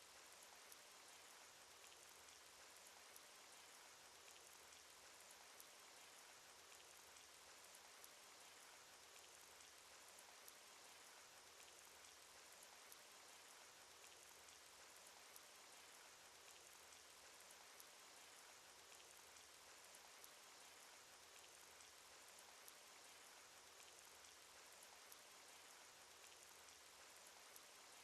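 Cartoon rain sound effect: faint, steady rainfall, an even hiss sprinkled with many small drop ticks.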